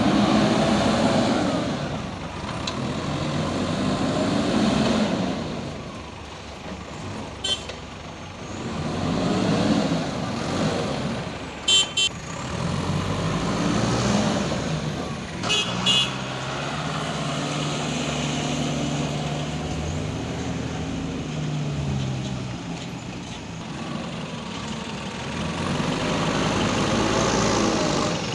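JCB 3DX Super backhoe loader's diesel engine revving up and easing off again and again as it works, with a steadier stretch after the middle. A few short high beeps sound in the middle.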